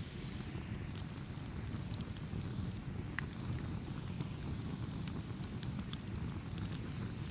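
Campfire burning with a steady low rumble and frequent sharp pops and crackles of burning wood, scattered irregularly throughout.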